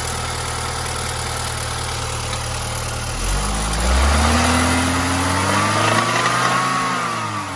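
Car engine idling, then revved about three seconds in, held up for about four seconds and dropping back near the end. It still has the engine knock on the throttle that a thick oil additive has not cured: a rod knock from crankshaft and rod bearings damaged by lack of lubrication.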